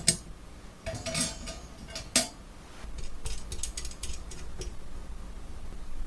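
Metal utensils clinking and scraping. There is a sharp clack just after the start, a cluster of clinks about a second in, another sharp clack around two seconds, then a run of lighter taps and scrapes.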